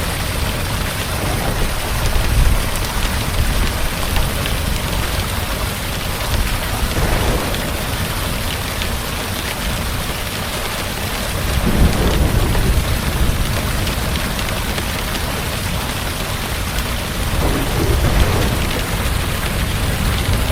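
Heavy rain falling steadily, with low rolls of thunder that swell about two seconds in, near the middle, and again near the end.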